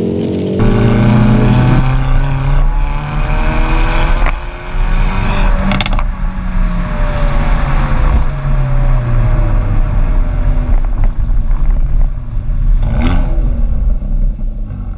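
Hyundai i30N's 2.0-litre turbocharged four-cylinder revving up and easing off several times under hard driving. Its exhaust gives two short sharp cracks, about six and thirteen seconds in.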